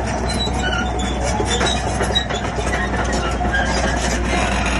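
Shantui crawler bulldozer working, its diesel engine running steadily under the clanking of steel tracks, with brief high squeals from the track rollers coming and going.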